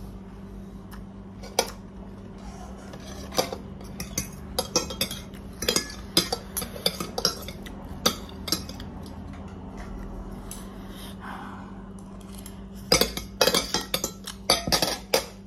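Eating utensils clinking and scraping against a ramen bowl in irregular clusters of sharp clicks, with a pause of a few seconds before a quick flurry near the end. A steady low hum runs underneath.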